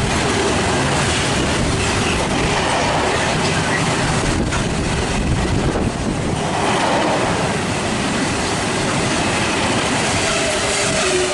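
Class 66-hauled Freightliner freight train passing through, a continuous loud rumble and rattle of wagons and wheels on the rails.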